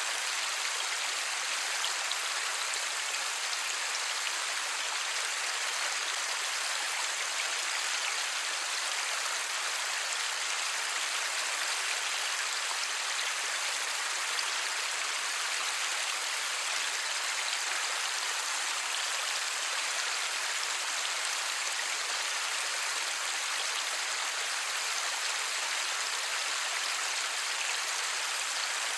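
Light rain falling steadily, an even hiss of many fine drops with no thunder.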